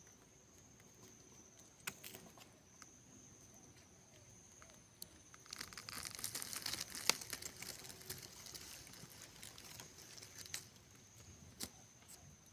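Rustling and crackling of dry material, like leaves or bark being handled, densest in the middle with a few sharp snaps, over a steady high-pitched insect drone.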